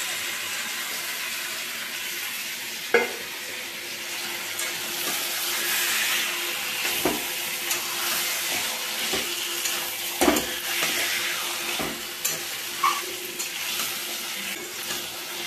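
Yogurt-marinated chicken pieces sizzling in hot oil and spice paste in a metal kadai, the start of browning the meat in the masala. The frying hiss is steady, and a metal spatula stirring the pieces scrapes and knocks against the pan several times.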